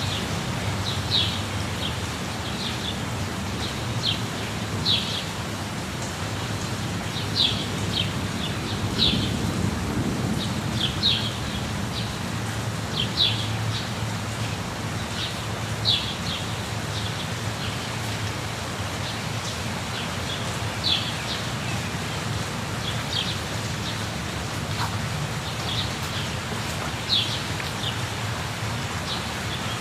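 Steady rush of a waterfall, with a bird repeating short, high, falling chirps every second or two.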